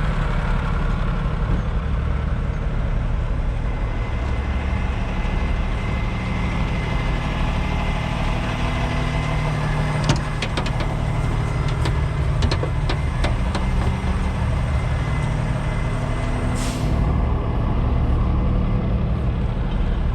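Heavy truck diesel engine idling steadily, with a series of sharp metallic clicks and clanks about halfway through and a short burst of air hiss near the end.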